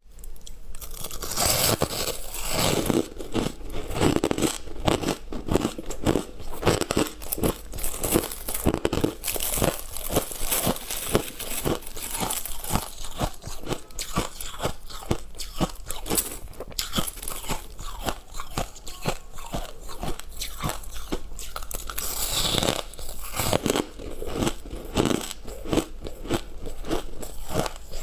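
Close-up crunching and chewing of refrozen freezer frost with hard ice inside: rapid, irregular crisp crunches, several a second, with a few louder bites.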